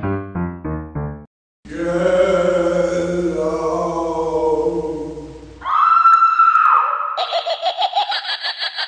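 A run of short sound-effect clips played back to back: four quick pitched stabs, a brief gap, a long held cry that sounds like many voices together, then a short steady whistle-like tone and fast pulsing near the end.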